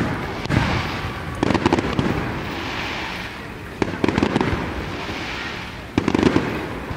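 Aerial fireworks shells bursting over water, sharp bangs every one to two seconds, some in quick pairs, each followed by a low boom and a crackling hiss that fades.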